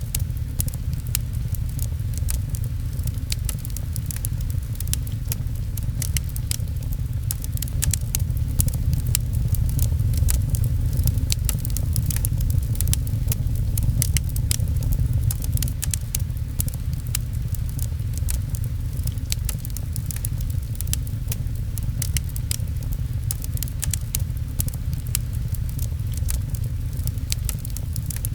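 Wood fire crackling, with many quick sharp pops throughout, over a steady low rumble and falling rain.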